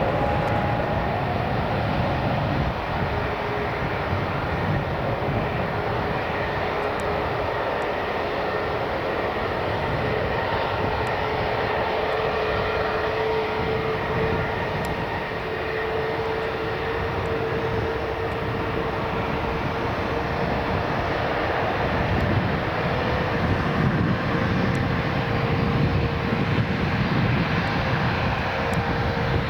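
Airliner engines running steadily: a continuous rushing noise with a held mid-pitched tone.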